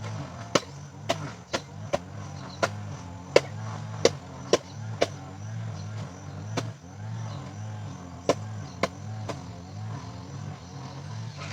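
A series of sharp knocks like chopping strikes, about two a second for the first five seconds and then a few scattered ones, over a low steady drone.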